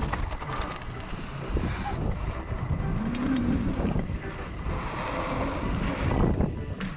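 Wind rushing over the microphone and tyres rumbling on a mountain-bike trail during a descent. A short pitched sound rises and falls about three seconds in.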